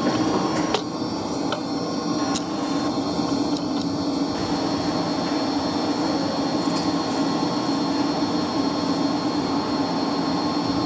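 Steady hum and whine of a running heating circulation pump, the standby unit carrying the load, with a few short clicks over it.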